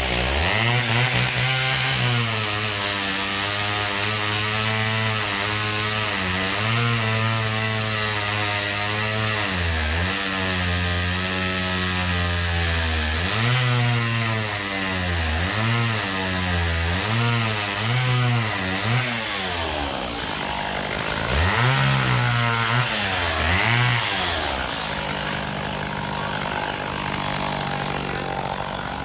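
Two-stroke chainsaw running hard, its engine pitch repeatedly dipping and climbing as the chain bogs in the wood and frees up. Near the end it settles to a lower, steadier speed.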